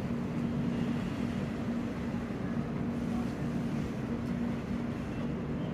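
Steady low mechanical hum with a constant droning tone, like engine or machinery noise.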